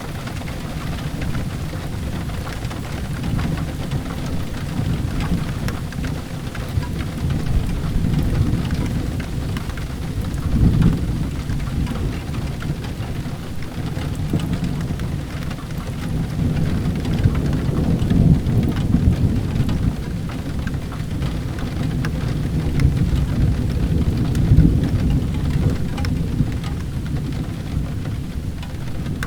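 Steady rain falling, with low rolling thunder that swells three times, about a third of the way in, past the middle, and again near the end.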